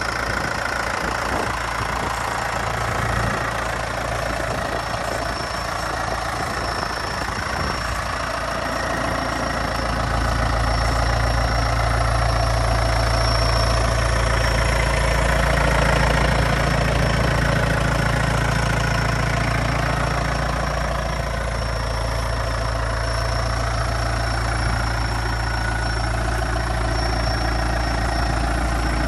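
New Holland TS100A tractor's diesel engine running steadily. It grows louder about a third of the way in and eases back down later.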